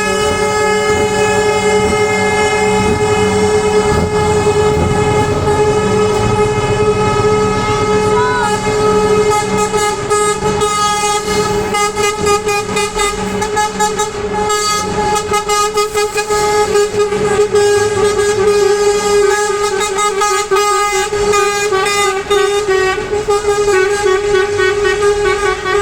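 Truck air horns sounding continuously as parading trucks pass, with the low rumble of their diesel engines underneath.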